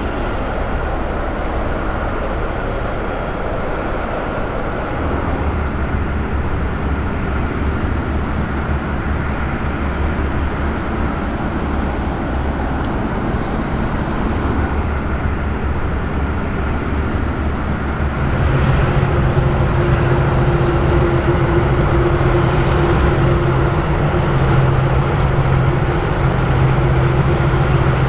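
Aircraft engines running with a steady low drone. About two-thirds of the way in it gets louder and steps up in pitch, with a steady hum added on top.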